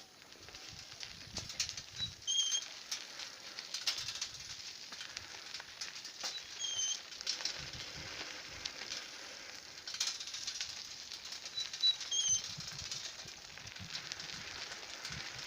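A bird gives a short call three times, about every five seconds, over a steady crackling hiss and occasional low rumbles like wind on the microphone.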